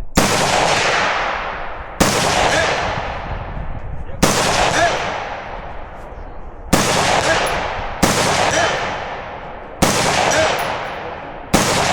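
Seven gunshots, slowly paced, about one and a half to two and a half seconds apart, each followed by a long echoing tail that fades before the next shot.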